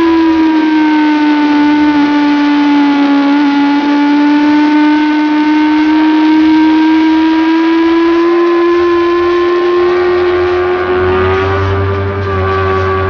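Sport motorcycle engine held at high revs on track, heard from on board at speed: one steady, loud note that sags slightly in the first few seconds, then climbs slowly and eases off a little near the end.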